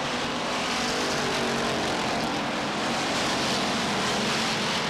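A pack of limited sportsman stock cars racing on a short oval, their V8 engines running together at speed in a steady, dense roar.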